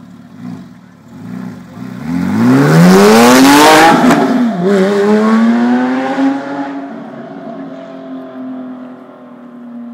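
A 2010 Porsche 911 GT3 RS's flat-six engine accelerating hard past, its note rising steeply and loudest about three to four seconds in. It drops briefly at an upshift, climbs again, then fades as the car pulls away.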